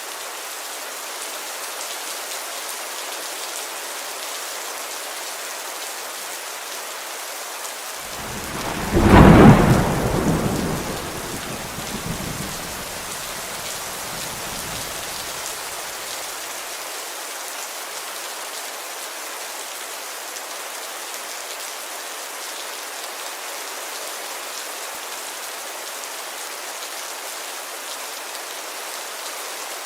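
Steady rain pattering on a window, with a single thunderclap about nine seconds in that rumbles away over the next several seconds.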